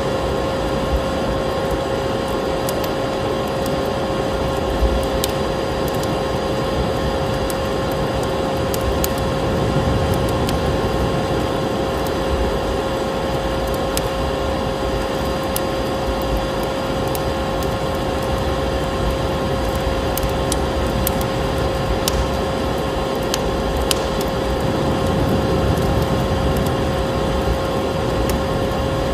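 Steady drone of a running vacuum cleaner, with a constant mid-pitched whine, layered with a wood fire crackling in scattered sharp pops.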